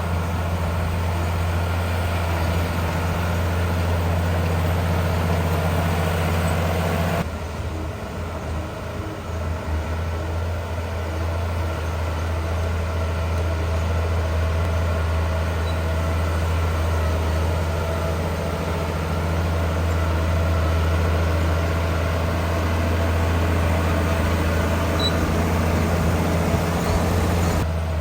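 Heavy diesel engine of earthmoving machinery running with a steady low drone. The sound changes abruptly about seven seconds in, then carries on much the same.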